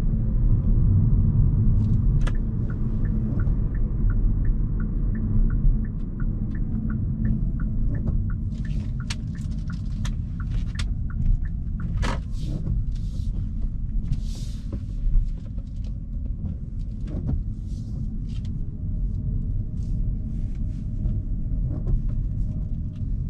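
Low, steady road and drivetrain rumble heard inside the cabin of a moving Hyundai Kona Hybrid. A turn-signal indicator ticks about twice a second from about two seconds in until about eight seconds in. Scattered clicks and short hisses follow.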